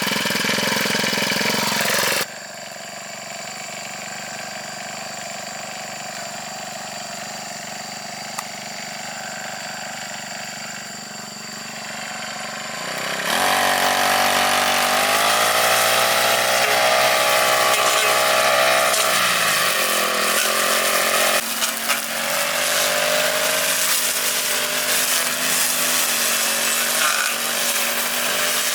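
Small petrol engine of a lawn mower running, its pitch rising and falling with the throttle. The level changes abruptly a few times: it drops about two seconds in, rises sharply around the middle and shifts again past two-thirds of the way.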